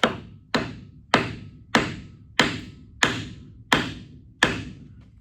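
Eight steady hammer blows, about one and a half a second, each ringing briefly as it fades: the slip clutch being driven onto the baler gearbox's input shaft.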